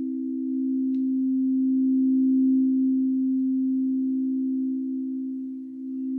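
Singing bowl sounding a long, steady, pure tone: two close low pitches held together, swelling slowly and easing off a little before the end.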